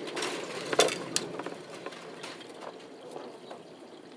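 Chicken feed being scooped and poured out: a grainy rattle with a few sharp clicks and clinks in the first second and a half, then quieter.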